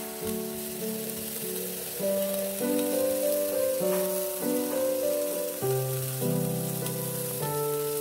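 Background music of held, changing notes, with sliced onions and button mushrooms sizzling in a frying pan as they are sautéed underneath it.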